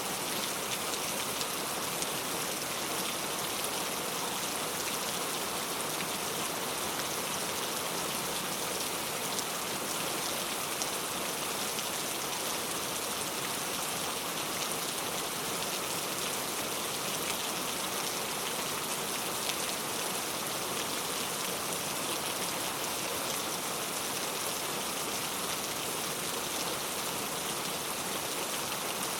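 Heavy rain falling steadily, a dense even hiss of drops with faint scattered patters on surfaces.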